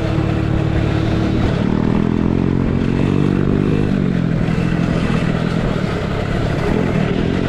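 A small motocross bike riding on the track, its pitch rising about a second and a half in and dropping back about four seconds in, over a steady dense rush of noise.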